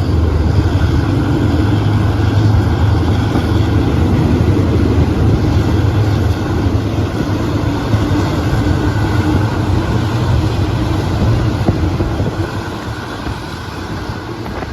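Diesel train engine running with a loud, steady low rumble, easing off a little near the end.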